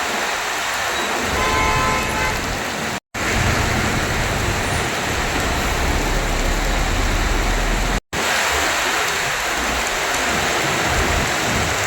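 Heavy rain pouring steadily, with a vehicle horn sounding briefly about a second and a half in and a deep low rumble through the middle. The sound drops out completely for an instant twice, at about three and eight seconds.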